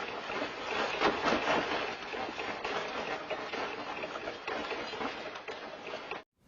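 Earthquake shaking: a dense rattling and clattering of loose objects over a steady rushing rumble, full of quick knocks. It cuts off suddenly near the end.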